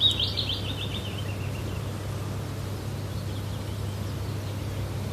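A bird singing a quick run of high notes that falls in pitch and fades out by about two seconds in, with fainter notes around three to four seconds in. A steady low background rumble runs underneath.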